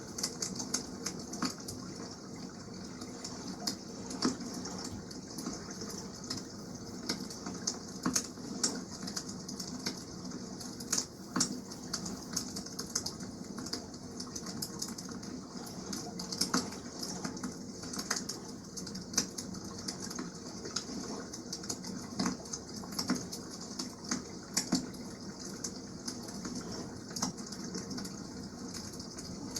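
Wood campfire crackling, with many sharp, irregular pops, over a steady wash of water.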